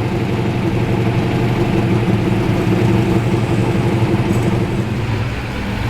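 A muscle car's engine idling steadily, just after starting up.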